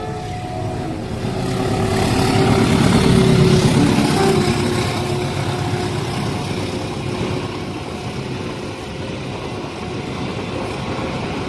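A road vehicle passing close by a railway level crossing, growing louder to a peak about three seconds in and then fading, with the crossing's warning chime faint at the start.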